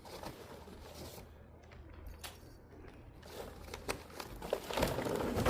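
Lumps of charcoal being handled and rummaged, with rustling, crunching and scattered clicks that grow louder near the end. The charcoal is old and broken into small pieces.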